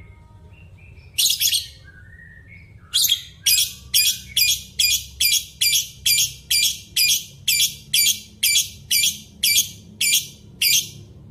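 A bird calling loudly and repeatedly: one call, a short pause with soft whistles, then a steady series of short calls at about two a second that stops suddenly.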